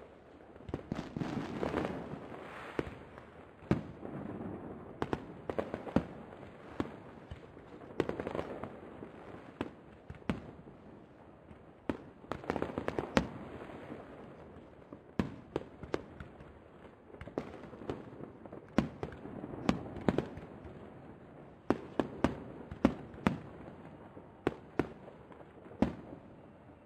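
Aerial fireworks shells bursting in an irregular string of sharp bangs, sometimes a few seconds apart and sometimes in quick clusters.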